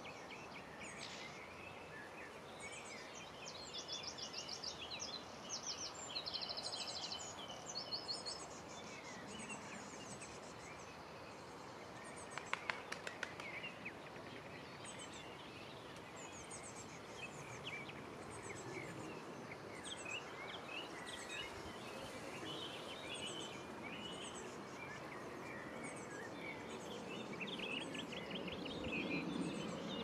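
Birds calling and trilling over a steady outdoor background hiss, with a fast repeated trill about 3 to 8 seconds in. A brief cluster of sharp clicks comes about 12 seconds in, and a low rumble swells near the end.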